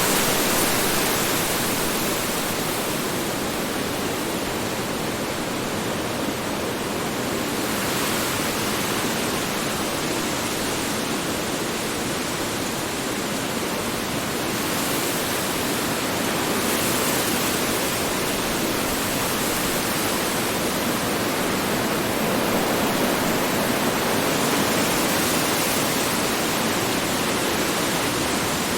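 Strong wind blowing steadily in a dense rush, swelling and easing slowly in its upper hiss.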